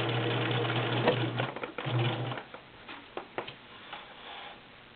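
Viking Husqvarna Selectronic 6570 sewing machine stitching chiffon: the motor runs steadily and stops about a second and a half in, then gives one short burst. Light clicks and knocks follow.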